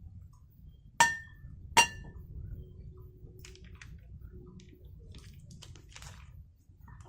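Two sharp metallic clinks of camp cookware, about a second in and again just under a second later, each ringing briefly, followed by faint light clatter.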